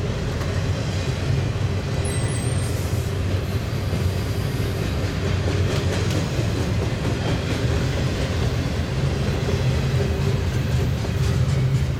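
Double-stack intermodal train's well cars rolling past: a steady rumble of steel wheels on rail, with a few faint clicks.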